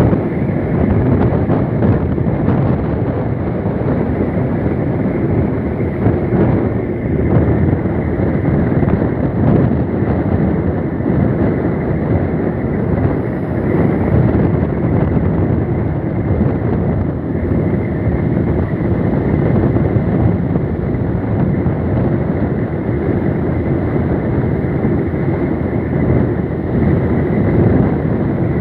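Wind buffeting the microphone: a steady, low rushing noise with no distinct events.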